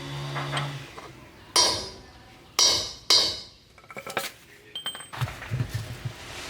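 Three sharp metallic clanks with brief ringing, the second and third about half a second apart, as metal tools or parts are struck. They are followed by lighter clinks and a short ping.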